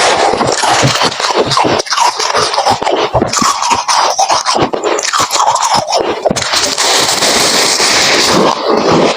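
Close-up crunching and chewing of freezer frost, a loud, dense run of crisp crunches.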